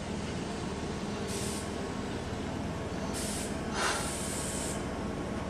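Train running with a steady rumble, with three short bursts of hiss about a second, three seconds and nearly four seconds in; the last is the longest and loudest.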